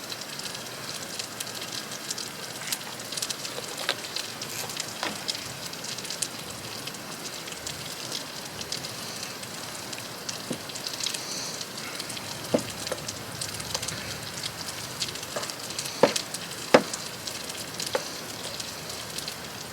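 Breakfast sausage and hash browns sizzling steadily in a pan, with a few sharp clicks and taps scattered through.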